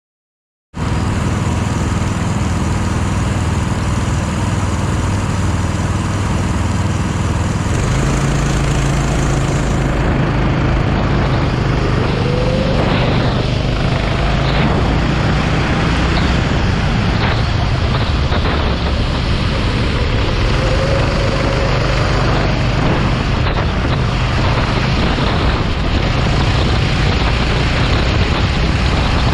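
Go-kart engine running hard under a steady, noisy rush, its low note shifting as it changes speed. The sound cuts in about a second in.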